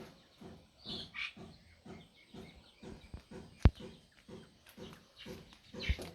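Poultry calling in a steady run of short low clucks, about three a second, with a few high chirps about a second in. Two sharp knocks cut through, the loudest a little past the middle and another near the end.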